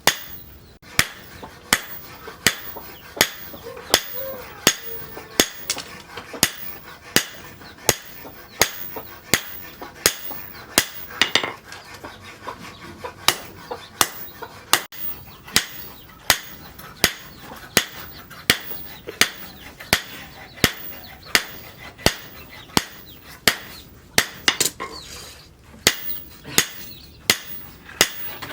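Steel being forged with a hammer: a steady rhythm of sharp, ringing blows, about one and a half to two strikes a second.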